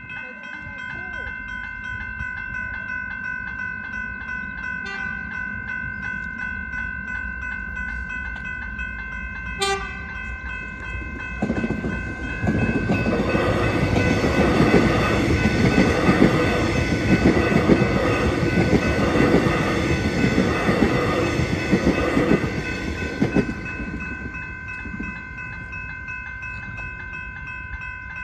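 Level-crossing warning bells ring steadily. About ten seconds in there is one short train horn blast, then an electric suburban train passes over the crossing for about twelve seconds with a loud rumble of wheels on rails, and the bells carry on after it has gone.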